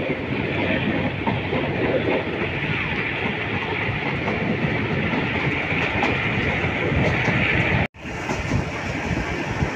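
Passenger train running at speed, heard from a carriage window: a steady rush of wheels on the rails and air going past. The sound cuts out for an instant about eight seconds in, then carries on.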